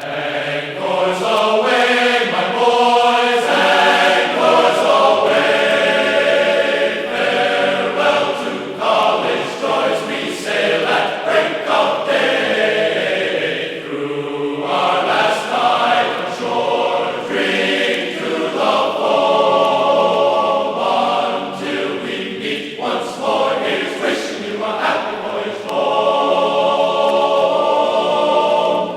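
Choir singing, starting suddenly from silence and carrying on without a break.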